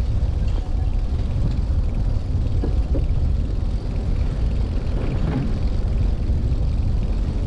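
Wind rumbling on the microphone, with tyre noise, while a Brompton folding bicycle is ridden along a path.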